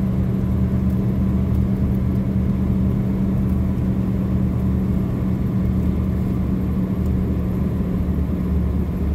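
A vehicle driving at a steady pace, heard from inside the cab: the engine and tyres make a steady low hum with a constant drone.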